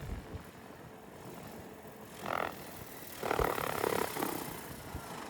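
An animal calling twice, a short call about two seconds in and a longer, louder one a second later, over a faint steady hum.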